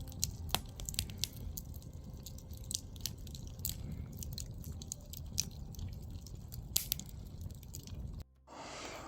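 Campfire crackling and popping, with irregular sharp snaps over a low rumble; it cuts off suddenly about eight seconds in.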